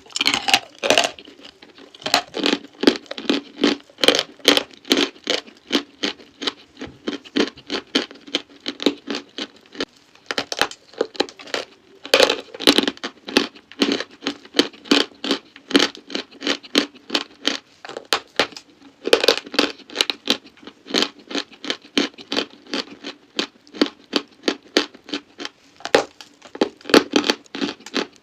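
Close-miked crunchy chalk being crunched: a fast, uneven run of sharp crackly crunches, several a second, with a few louder clusters.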